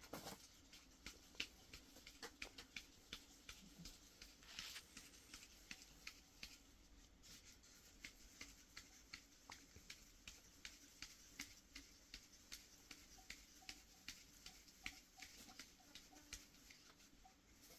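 Faint, sharp clicks or taps over near silence, irregular at first, then fairly even at about two a second.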